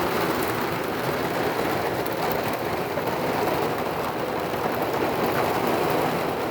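Heavy rain pouring down, a steady, even hiss of drops hitting the ground and surfaces.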